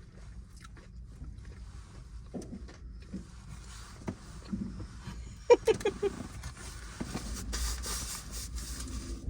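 Someone eating a big burger with a full mouth: chewing and muffled mouth noises, with a quick cluster of short pops about halfway through. Rustling follows near the end, over a low steady rumble.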